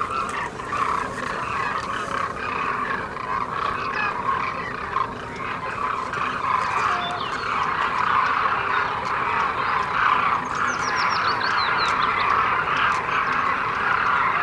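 A large flock of demoiselle cranes calling together: a dense, continuous chorus of many overlapping calls. About ten seconds in, a short run of high, falling chirps from a smaller bird.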